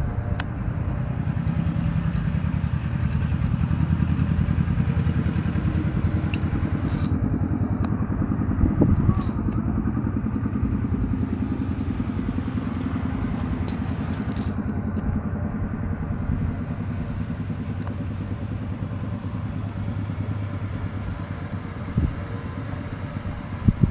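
A small engine running steadily, its drone swelling slightly in the first few seconds, with a couple of short knocks near the end.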